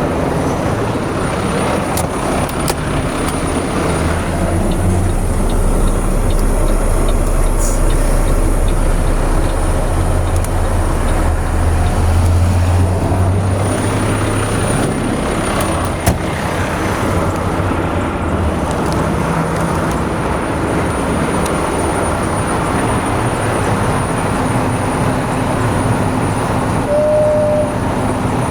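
Steady road traffic noise with a heavy vehicle engine rumbling low, loudest through the middle stretch. A short high beep sounds near the end.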